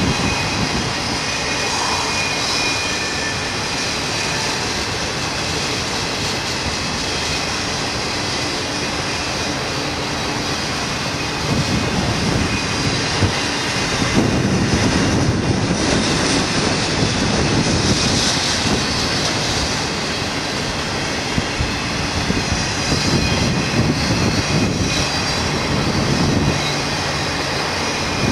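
Freight cars of a BNSF intermodal train rolling past close by: a steady rumble and clatter of steel wheels on rail, with a thin high wheel squeal over it. The noise swells louder around the middle and again near the end.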